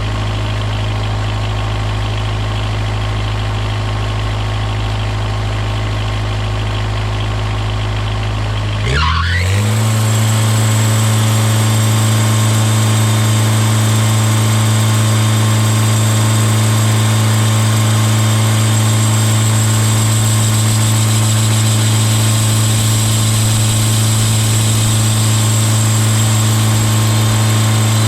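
Sawmill engine running steadily at idle, then throttled up about nine seconds in and held at a higher, steady speed.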